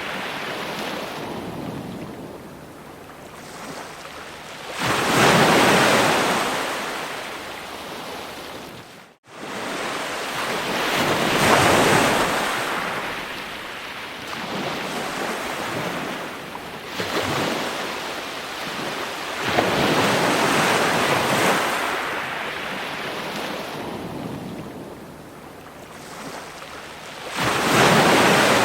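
Ocean waves breaking on a shore: a rushing surf that swells with each wave, about one every five or six seconds, then washes back down. It cuts out for an instant about a third of the way through.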